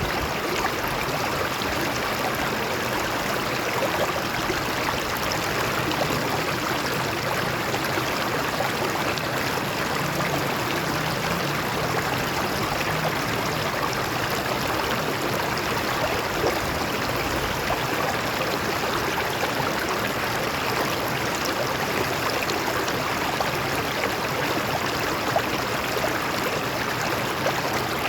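A shallow stream running over rocks: steady rushing and babbling water with small splashes.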